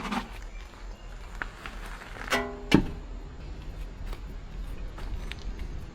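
A few sharp metallic clinks and knocks from tools and metal parts being handled, one ringing briefly about two seconds in, over a low steady hum.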